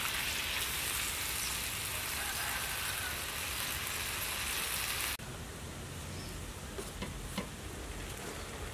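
Mud crab and green onions sizzling in a hot wok as crab liquid is poured in; the sound is a steady hiss. About five seconds in it cuts to a quieter sizzle with a few faint ticks as the wok steams.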